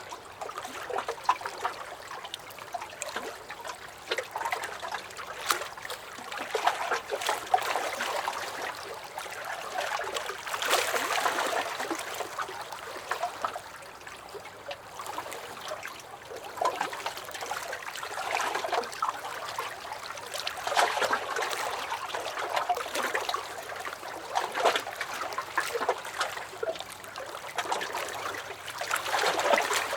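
Small lake waves lapping against a dock: irregular wet slaps and trickling that swell and ease every several seconds.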